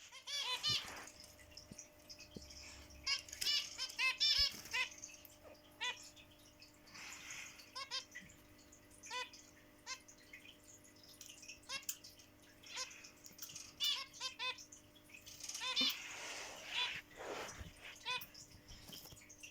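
Pet zebra finches and budgies chirping: a string of short, sharp chirps in irregular bursts, with two longer, noisier spells in between.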